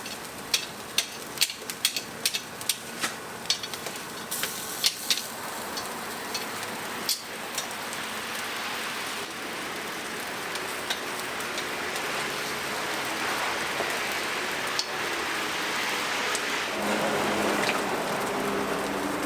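Wood fire and roasting chicken crackling and sizzling: irregular sharp pops over a steady hiss for the first several seconds, then a steady sizzling hiss.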